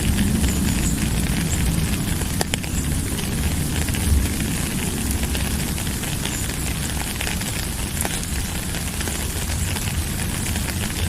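Steady rain: a continuous hiss over a deep low rumble, with many scattered sharp ticks of single drops.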